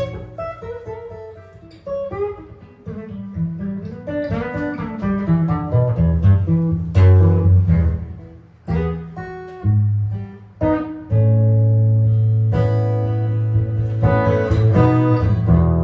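Jazz guitar playing solo and improvising: melodic runs of single notes, then struck chords that ring out over low sustained bass notes.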